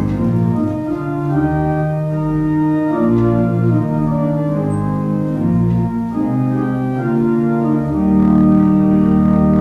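Organ music: held chords over a slowly moving bass line, swelling to a fuller, louder chord near the end.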